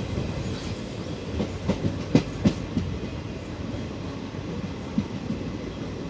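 Indian Railways express train running past, a steady rumble with its wheels clacking over the rail joints. The clacks are loudest and come in a quick cluster about two seconds in, with another single clack near the end.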